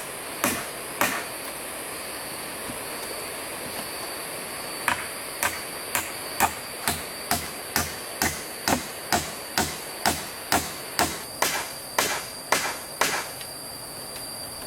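A hand tool striking wood in a steady rhythm, about two blows a second: a few blows near the start, a pause, then a long run from about a third of the way in until near the end. A steady high insect buzz runs underneath.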